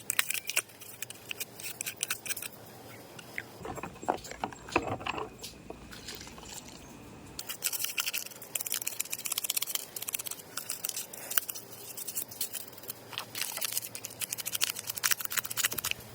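Rapid clicking and scraping of small hard parts being handled and worked apart, thinning to duller handling noise for a few seconds near the middle.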